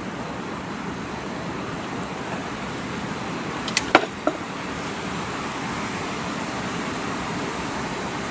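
Steady wind noise, with three sharp clicks close together about four seconds in.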